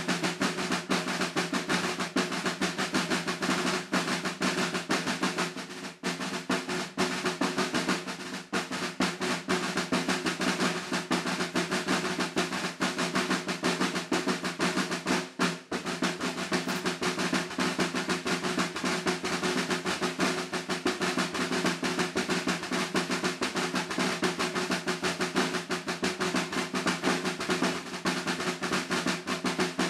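Snare drum played unaccompanied in a rudimental solo: fast, dense strokes and rolls with the drum's ring under them. There are two short breaks, about six seconds in and about halfway through.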